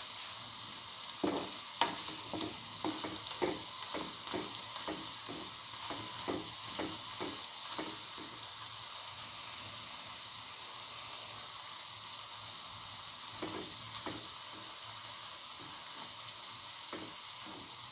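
Chickpea-potato fritters deep-frying in hot oil: a steady sizzle with a run of short crackling pops, about two a second, over the first eight seconds and a few more later on.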